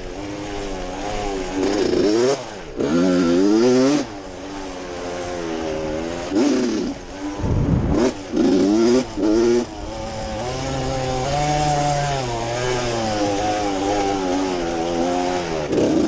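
Dirt bike engine revving, its pitch climbing and dropping again and again as the throttle is opened and closed. A short low thump comes about halfway through.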